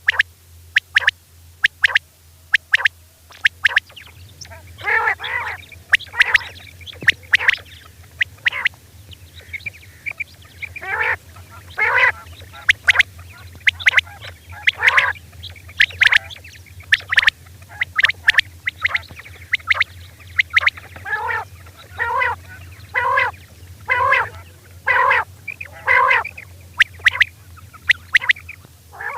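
Female common quail calling: a harsh, raspy 'kirak' call repeated about once a second, with short sharp ticks between the calls. A faint steady low hum runs underneath.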